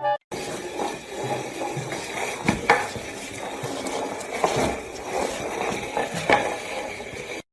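Room noise with a few sharp clinks and knocks scattered through it, like things being handled in a small room.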